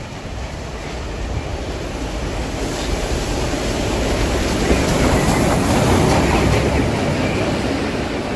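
Train running past: a rumble and rail noise with no clear tones, growing louder to a peak about five to six seconds in, then easing slightly.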